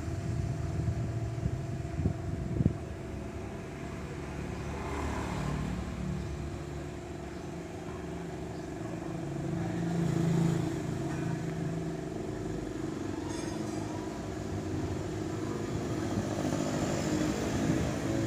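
A motor vehicle engine running steadily, with a few knocks in the first three seconds and a brief swell in loudness about ten seconds in.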